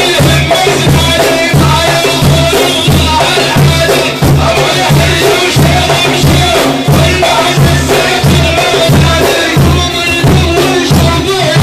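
Sufi dhikr music: frame drums beating a steady rhythm of about two strokes a second, with jingling rattles, under a chanted voice leading the dhikr.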